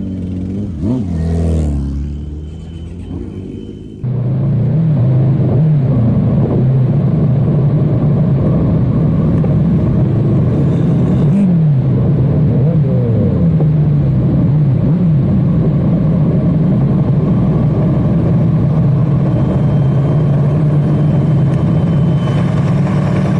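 Motorcycle engine running while riding, its pitch rising and falling with the throttle; about four seconds in the sound jumps suddenly louder into a steady rumble.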